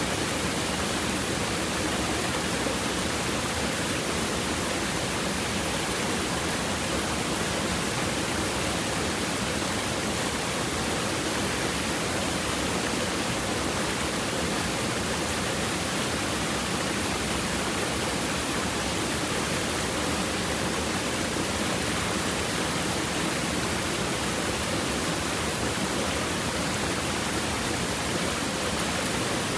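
A rocky stream babbling steadily as water runs over and between the stones, an even rushing without breaks.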